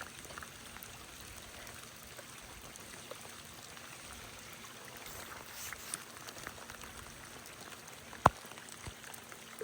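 Steady wash of a flowing creek and falling rain. One sharp click sounds near the end.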